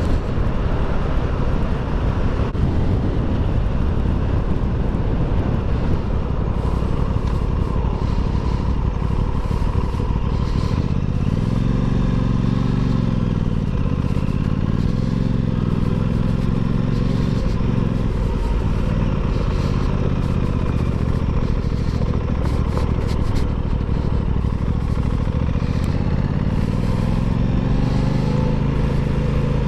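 Aprilia Tuono 660's parallel-twin engine running under way, heard through heavy wind rush on the microphone. Its note climbs and dips in the middle and climbs again near the end as the throttle is worked.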